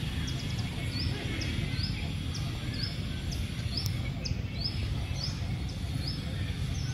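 A bird chirping, a long series of short high chirps coming about two a second, over a steady low rumble of outdoor noise.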